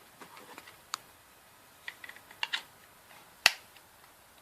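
Small plastic clicks and taps from a mini vibration speaker being handled as two AAA batteries are fitted into it. The loudest is one sharp click about three and a half seconds in.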